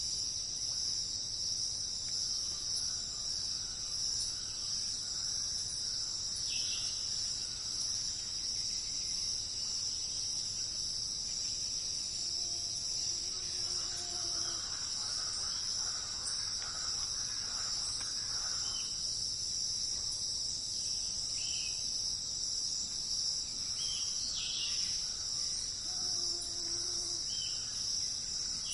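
Steady, high-pitched chorus of crickets, with scattered short bird chirps throughout.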